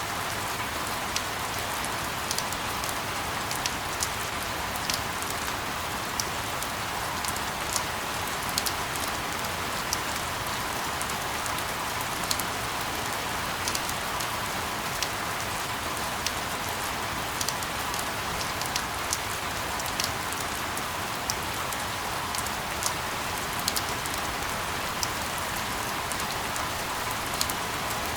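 Steady rain: an even hiss of falling rain with individual drops ticking sharply at irregular moments.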